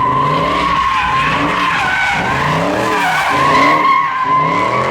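Car tyres squealing continuously as the car slides around in donuts, over the engine revving in repeated rising-and-falling pulls.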